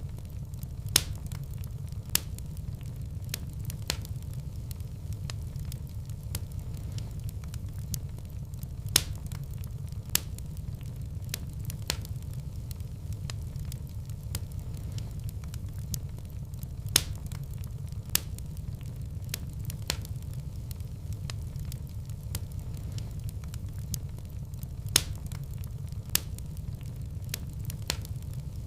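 Wood fire burning in a fireplace: a steady low rumble of flames with scattered sharp crackles and pops. The loudest pops come back about every eight seconds.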